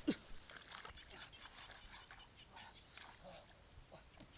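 A dog gives a short call that falls in pitch right at the start, then only faint scattered small sounds.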